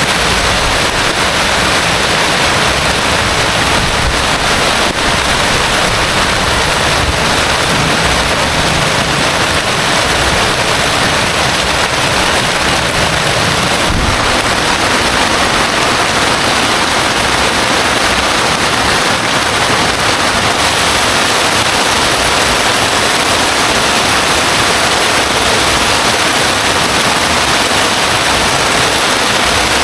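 Heavy rain pouring down in a storm, a loud steady hiss.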